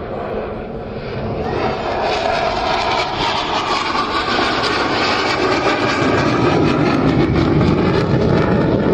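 Military aircraft flying overhead, its engine noise building steadily louder.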